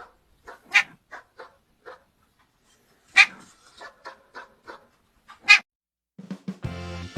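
A dog making a string of short, soft whimpering sounds, broken by three louder sharp yelps. Music comes in near the end.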